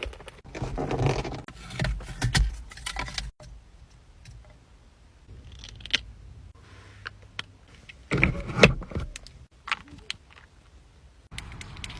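Small hard objects jangling and clattering as they are handled, in two bursts: one over the first three seconds or so, and another about eight seconds in, with a few lighter clicks between.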